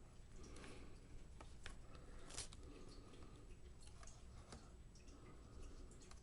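Faint, scattered clicks and light rustling from small laptop parts and cable connectors being handled during reassembly; the clearest click comes about two and a half seconds in.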